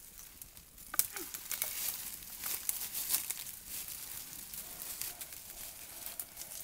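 Footsteps crunching through dry leaves and brush: an irregular run of sharp crackles and crinkles starting about a second in.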